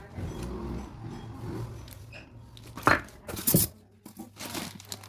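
Packaging being torn and crinkled by hand, with two sharp, loud rips about three and three and a half seconds in.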